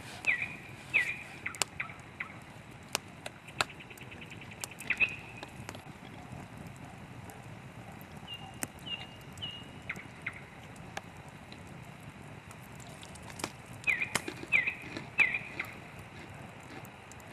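Campfire wood crackling with scattered sharp pops, while a songbird calls in short falling chirps, three or four in a row near the start and again near the end, with a quick trill about four seconds in.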